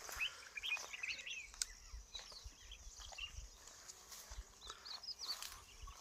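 Small birds twittering: quick, high, faint chirps in short runs, with a few soft clicks.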